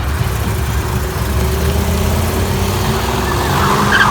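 Car engine idling with a low, steady rumble, getting louder in the last second or so.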